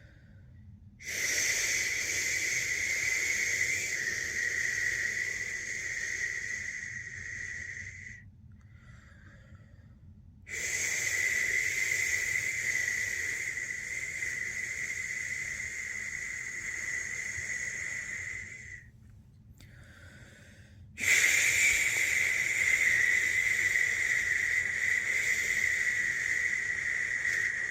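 A person shushing a newborn to sleep: three long, steady 'shhh' sounds, each lasting about seven to eight seconds, with short pauses for breath between them.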